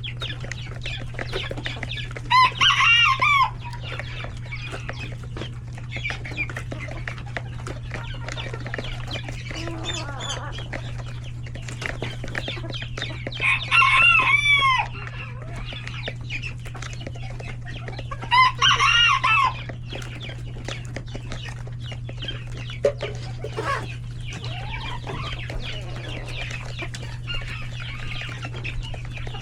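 A flock of chickens clucking steadily, with roosters crowing loudly three times, each crow about a second long. A steady low hum runs underneath.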